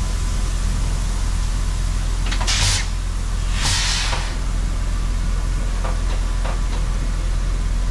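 Farm machinery engine running with a low, steady rumble. Two short hisses come at about two and a half and three and a half seconds in, and a few light clicks follow.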